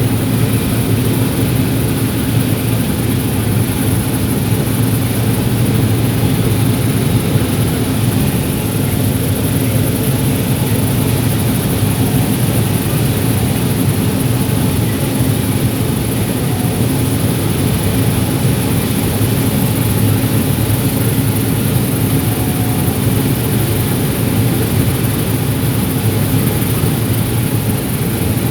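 John Deere 9760 STS combine harvester running steadily while harvesting corn: a continuous low machine drone that does not change.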